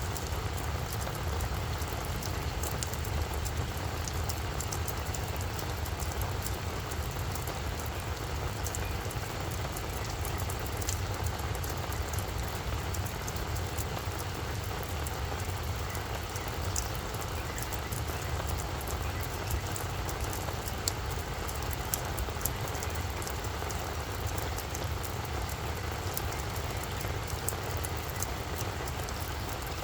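Steady rain falling on a flower bed, with scattered sharp ticks of single drops over an even hiss and a low steady rumble underneath.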